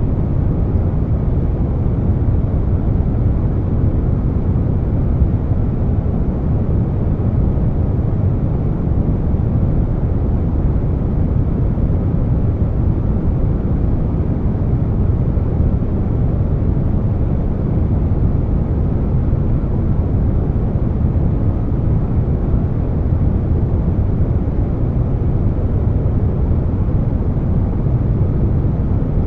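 Steady air conditioner running, blended with brown noise: an even, deep rushing hum, heaviest in the low end, with no changes.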